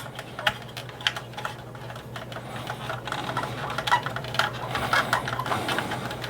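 Light, irregular clicking and tapping of hard plastic toy parts being handled, from a 1983 G.I. Joe Skystriker jet's shell and landing gear being taken apart, over a steady low hum.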